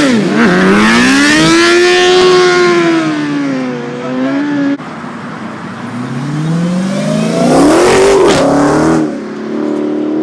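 Sports car engines revving loudly, the pitch climbing and falling. It cuts off abruptly about five seconds in, then a second engine run rises in pitch and drops away near the end.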